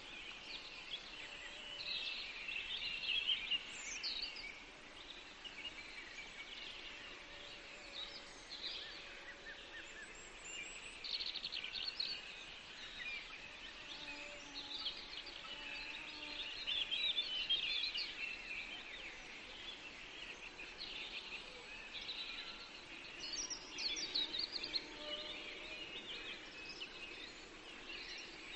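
Several songbirds singing in a forest: chirps and trills in bursts throughout, over faint background hiss.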